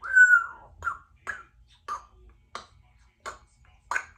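Congo African grey parrot giving a loud whistled call, then a run of short sharp clicks about every two-thirds of a second.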